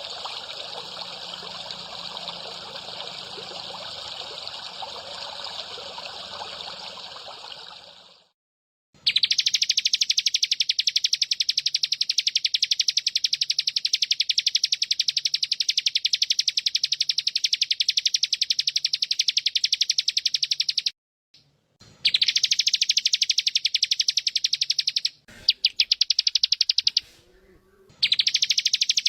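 Trickling water for the first eight seconds or so. After a brief pause, a loud, very fast and even high-pitched trill of a recorded training call from a bird-training mix takes over, stopping briefly twice near the end.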